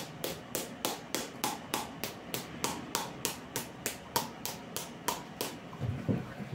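Self-massage tapping: the handle of a plastic soup spoon struck on the body in a steady rhythm, about three taps a second, stopping about five and a half seconds in. A couple of low thumps follow near the end.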